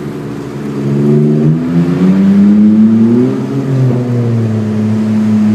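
2001 BMW 325i's 2.5-litre straight-six running open after the headers, with no catalytic converters or mufflers, as the car accelerates. The engine note climbs from about a second and a half in, then holds steady and loud.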